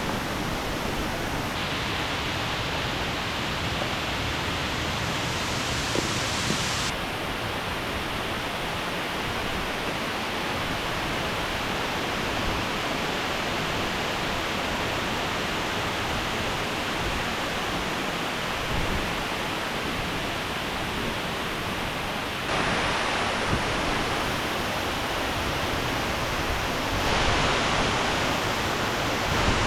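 Waterfall and stream rapids rushing steadily, a full even roar of water; its tone shifts abruptly a few times.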